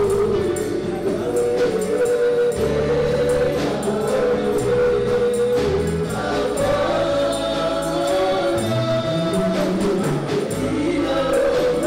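Congolese gospel praise music: a choir singing over a bass line and a steady percussion beat.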